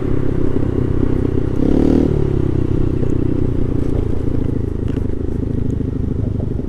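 Honda Navi's small single-cylinder four-stroke engine running steadily while riding in traffic, its note swelling briefly about two seconds in.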